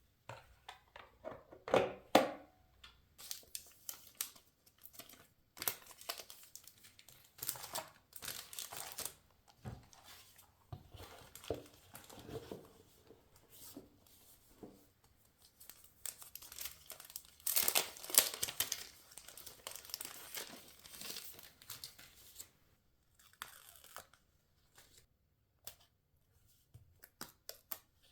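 Paper being torn and crinkled by hand in a run of irregular rips and rustles. The loudest tears come about two seconds in and again around two-thirds of the way through.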